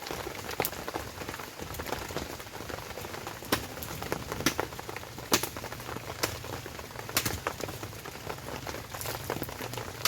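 Heavy rain on a tent shelter: a steady hiss of rainfall with louder single drops smacking down at irregular moments, several of them sharp and loud.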